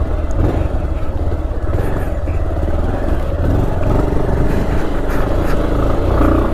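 Motorcycle running steadily while riding along a gravel road: a constant low rumble.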